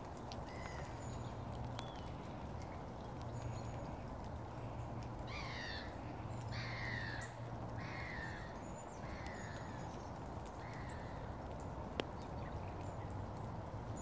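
A bird calling in a series of four falling calls about a second and a half apart, with a fainter fifth call after, over steady background noise. A single sharp click comes near the end.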